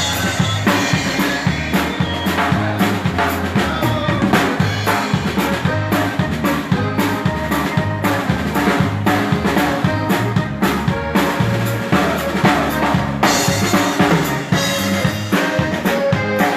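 Live Texas Czech dance band playing, with the drum kit's snare and bass drum beating a steady rhythm over the other instruments.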